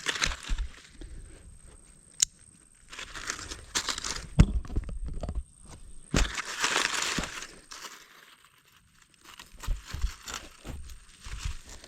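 Handling noises of baiting a fishing rig with cut shad: irregular crinkling and rustling with sharp clicks and knocks, the loudest about four seconds in.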